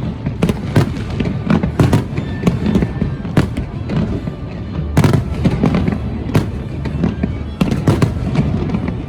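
Fireworks display: a rapid, irregular run of sharp bangs and cracks over a continuous low booming of bursting shells.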